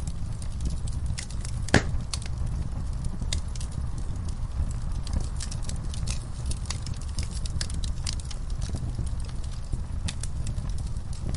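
Wood fire burning in a fireplace: a steady low rumble of flames with scattered small crackles and pops, and one louder pop a little under two seconds in.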